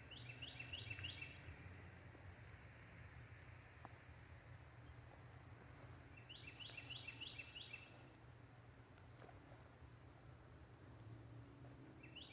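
Faint evening ambience: a songbird sings a quick run of rapid repeated notes near the start and again about halfway through, over faint high chirps that recur throughout.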